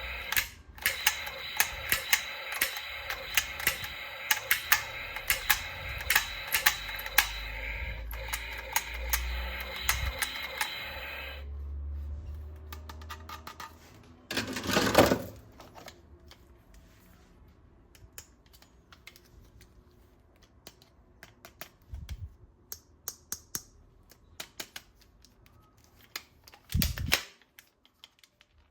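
Plastic toy guns being handled, with rapid clicking over a steady hum for the first eleven seconds or so. A short loud burst comes about fifteen seconds in, followed by scattered quieter clicks and a couple of thumps.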